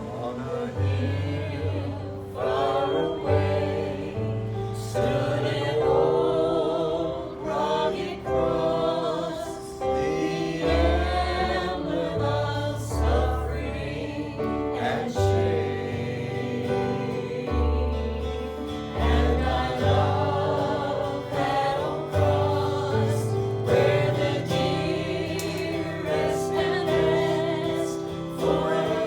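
Group of voices singing a gospel worship song with instrumental accompaniment, carried by sustained low bass notes.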